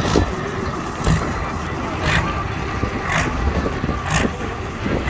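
Heavy engine of a pulling tractor or truck running, a deep steady rumble, with a short sharp tick about once a second.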